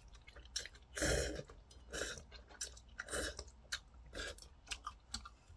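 A man chewing a mouthful of instant ramen noodles close to the microphone, with soft wet chewing sounds coming about once a second.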